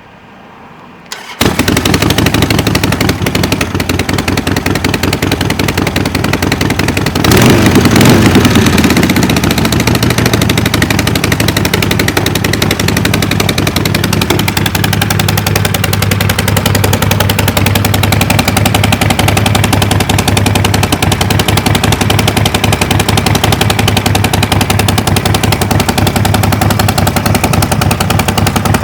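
Harley-Davidson XL1200 Nightster's air-cooled 1200 cc V-twin turning over and starting about a second in, then running loud at a steady idle with a rapid pulsing beat. About seven seconds in the revs rise briefly in a short throttle blip, then drop back to idle.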